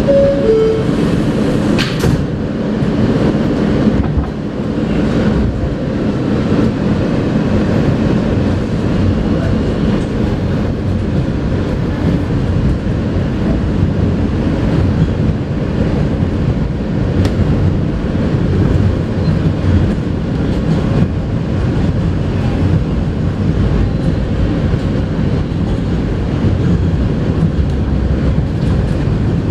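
Inside an R160A subway car: the two-note door-closing chime sounds at the start, falling in pitch, with a sharp knock about two seconds in as the doors shut, then the train runs along the track with a steady rumble and rail noise.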